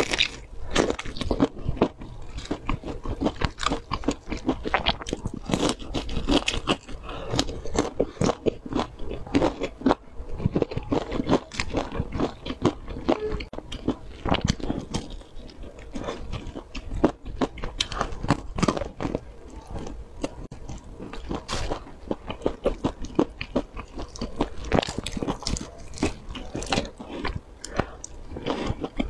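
Close-miked biting and chewing of crispy, sauce-coated fried chicken: a dense run of crunches from the breaded crust, mixed with wet chewing.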